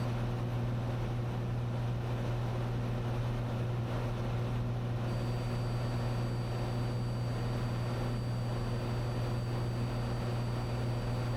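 Cessna 182's six-cylinder piston engine and propeller droning steadily in cruise flight, heard inside the cabin as a constant low hum.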